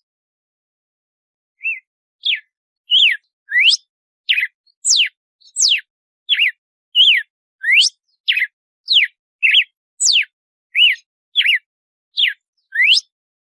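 Red-cowled cardinal (galo-de-campina) singing its 'açoite' (whip) song: a quick run of about twenty short, clear whistled notes, some sweeping up and some down, about two a second, starting after a second and a half of silence.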